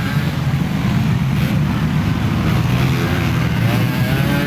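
Motocross dirt bike engines running hard during a race: a loud, steady rumble, with a wavering pitched note in the last second or so.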